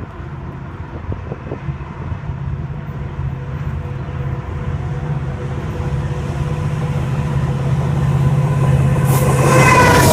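Train approaching, its rumble growing steadily louder with a steady engine tone under it; near the end a horn starts to sound.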